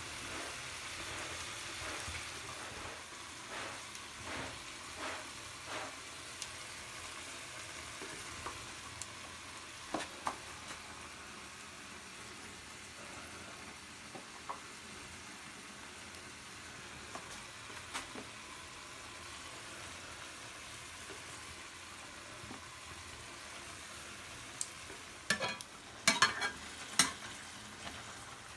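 Chicken curry frying in a pan: a steady sizzling hiss with scattered pops. Near the end a ladle stirs and scrapes against the pan in a quick run of loud knocks.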